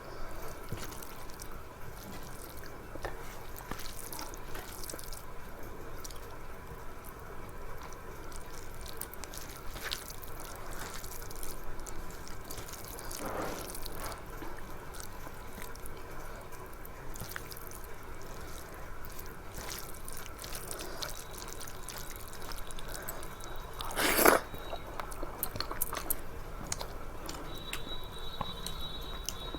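Close-up wet eating sounds of rice with dal and curry: small moist clicks and smacks of chewing and mouth noises, repeated irregularly. One louder knock or clatter comes about 24 seconds in.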